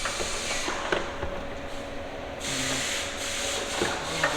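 Steady workshop hiss, like sanding or air, that drops away for about a second and a half and then comes back, with a few light knocks as metal hinge parts are handled and test-fitted.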